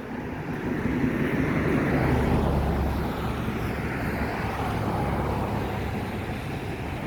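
A passing vehicle's engine rumbling, swelling over the first two to three seconds and then slowly fading away.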